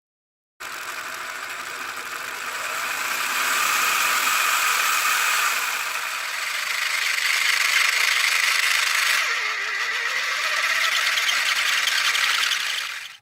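A small motor-driven mechanism running steadily, its pitch shifting a little as it goes; it starts and stops abruptly.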